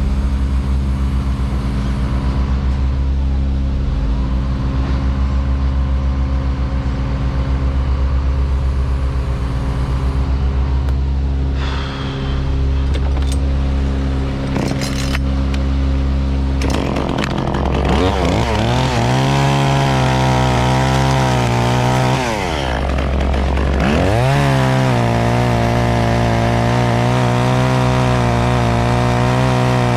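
A steady low engine hum, then a two-stroke chainsaw starts about halfway through and revs up. Its whine drops briefly near two-thirds of the way and climbs back to a high, steady full-throttle run to the end.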